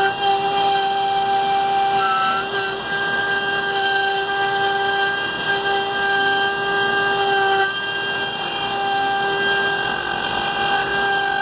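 Stepper motors of a 3D-printed CNC machine whining at a steady pitch as the machine moves, the pitch shifting slightly about eight seconds in.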